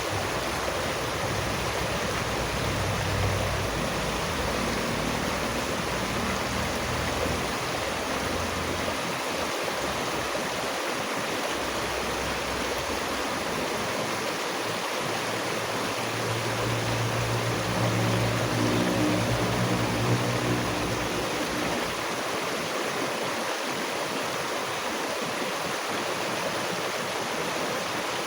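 Running water rushing steadily. A low hum swells in for a few seconds just past the middle, then fades.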